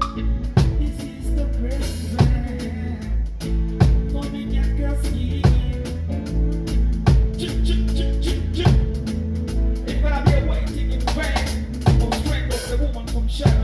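Live band playing a reggae groove: drum kit and bass guitar on a steady beat, with a heavy drum hit about every second and a half.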